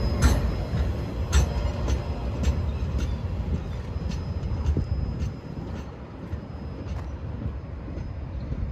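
A slow CSX maintenance-of-way rail train rolling past, its wheels clicking over rail joints about once a second over a low rumble. The sound fades as the train moves away, dropping off about five seconds in. A faint, thin, high whine runs along with it.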